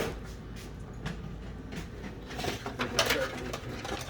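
Scattered knocks, clicks and rustling of hand work on a light aircraft's firewall, as wires and cables are pulled through it, busiest a little past the middle.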